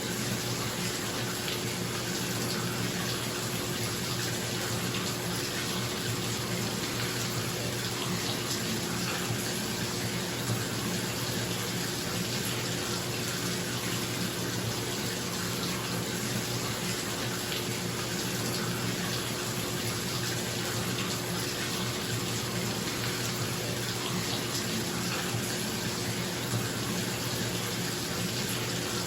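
Bathtub tap running steadily into the tub, a constant rush of water, with a bathroom exhaust fan humming steadily underneath.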